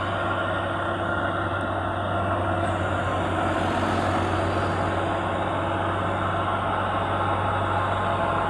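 Heavy truck's diesel engine running steadily, with a low continuous hum and dense mechanical noise.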